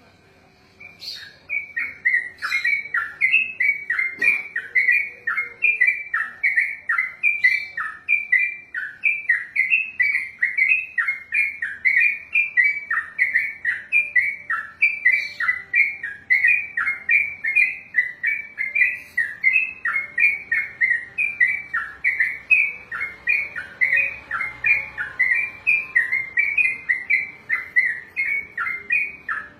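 Sooty-headed bulbul (trucukan) singing its long rolling song ('ropelan'): a fast, unbroken string of repeated chirpy notes, about two a second, starting about a second in and running without a break for nearly half a minute.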